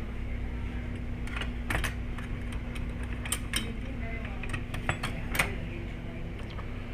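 A scatter of light clicks and clinks, the sharpest about five seconds in, over a steady low hum.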